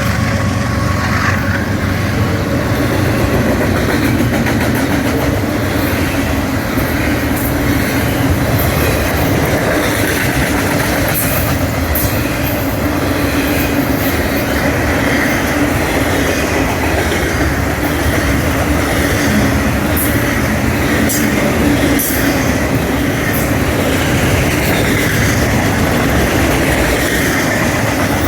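BNSF freight train's cars rolling steadily past, with wheels running on the rails and a faint high ring from the wheels.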